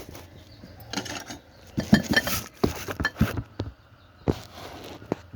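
A metal spoon clinking and scraping against a cooking pan: a run of quick knocks in the middle, then a couple of single taps near the end.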